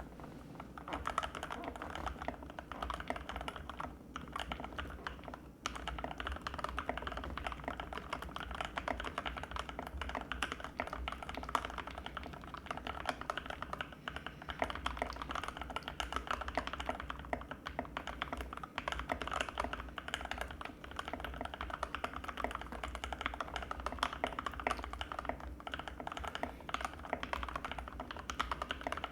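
Continuous fast typing on an Anne Pro 2 mechanical keyboard with Gateron Red linear switches: a dense stream of key clicks with short pauses about four and five and a half seconds in.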